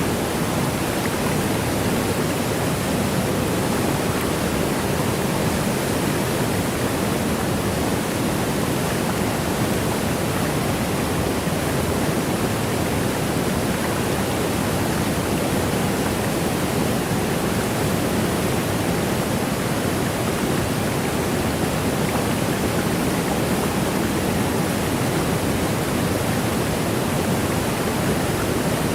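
Waterfall: a steady rush of falling water, an even, unbroken wash of noise with no separate splashes, fullest in the low-middle range.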